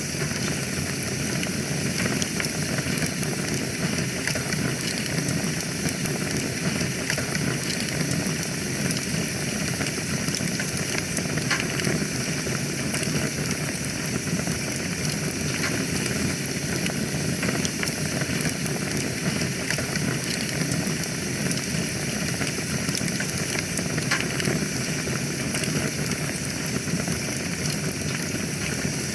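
Wood fire crackling in a fireplace: a steady hiss with frequent small pops and snaps scattered throughout.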